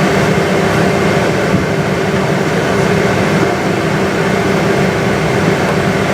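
Steady engine and air noise heard inside the cabin of a Boeing 777-200 airliner: an even drone with a low hum and a fainter steady tone above it.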